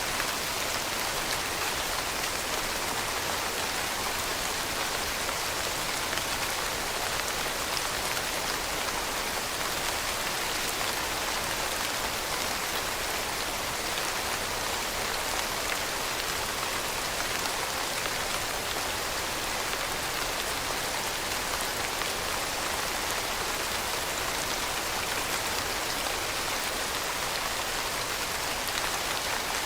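Steady rain falling on a surface, a dense even patter of many fine drops with no change in strength.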